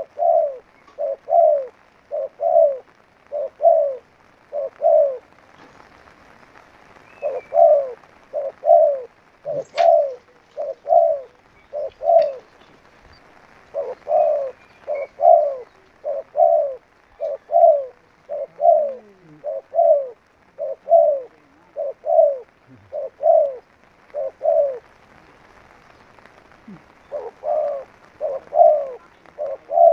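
Spotted dove (tekukur) cooing: a long run of short, low, evenly spaced coos, about three every two seconds, with brief breaks about six seconds in and near the end.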